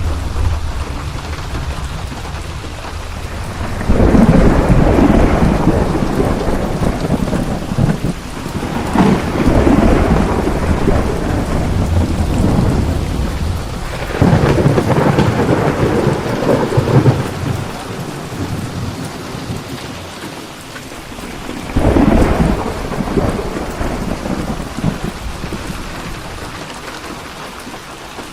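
Thunderstorm: steady heavy rain with rolling thunder, four long rumbles swelling up one after another about every five seconds, the last near the end fading back to rain alone.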